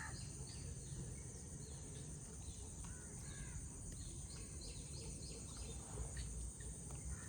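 Birds calling now and then over a steady outdoor background of high hiss and low rumble.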